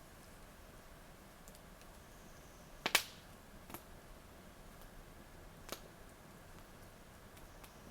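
Wood campfire crackling: one loud sharp pop about three seconds in, two smaller pops after it, and faint scattered ticks over a quiet steady background.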